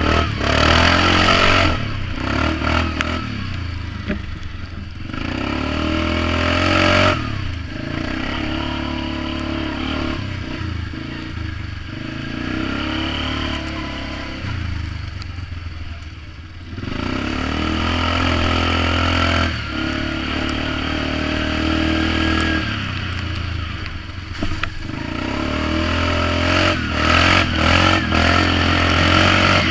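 Polaris Magnum 425 ATV's single-cylinder four-stroke engine running through a DG Performance RCM-II aftermarket exhaust muffler while riding, the throttle opening and closing several times so the exhaust note swells and drops back, loudest near the start, in the middle and near the end.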